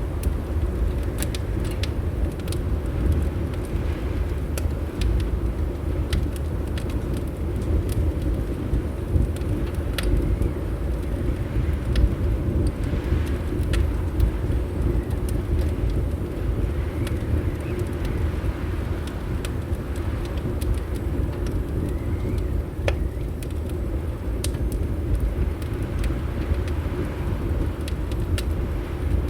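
Wood fire in a fireplace crackling, with scattered sharp pops and ticks over a steady low rumble.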